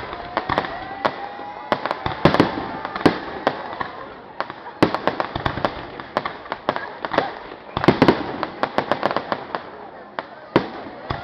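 Fireworks going off: repeated sharp bangs and crackling in bunches every second or two, loudest about eight seconds in, over a steady background of voices.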